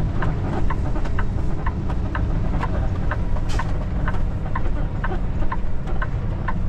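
Kenworth T680 semi truck's turn signal ticking steadily about twice a second inside the cab, over the steady low rumble of the diesel engine pulling out into a turn.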